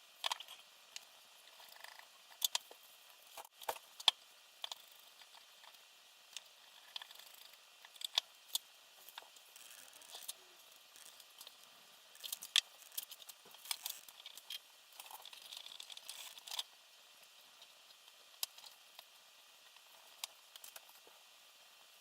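Irregular light clicks, taps and rustles of small parts being handled during hand assembly of a quadcopter, with a few sharper clicks and a short stretch of rustling near the end.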